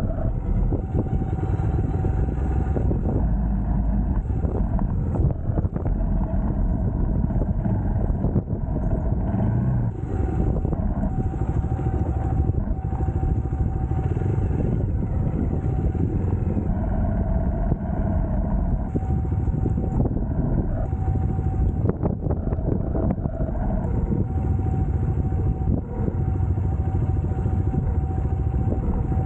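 UM Scrambler X motorcycle engine running steadily under way, a continuous low rumble with a steady high tone riding above it.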